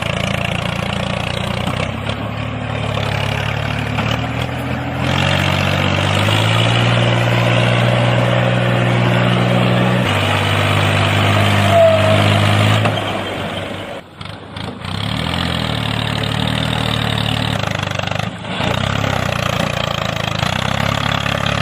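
Tractor engine running under load, its pitch stepping up and down as it revs. The sound drops out briefly about two thirds of the way through, and again a few seconds later.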